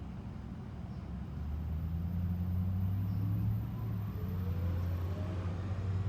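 A vehicle engine running nearby: a low steady hum that grows louder about a second in, with a faint whine slowly rising in pitch toward the end.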